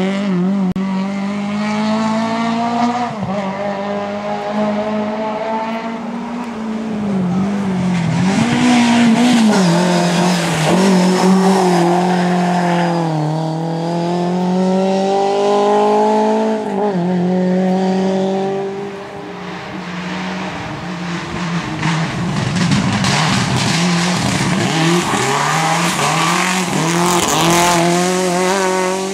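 Rally car engine at full competition pace, its pitch repeatedly climbing under acceleration and dropping sharply at gear changes and braking.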